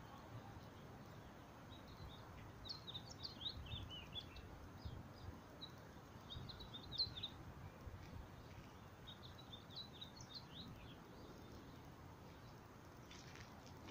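Faint bird chirping: three spells of quick, high, short chirps over a low, steady background rumble.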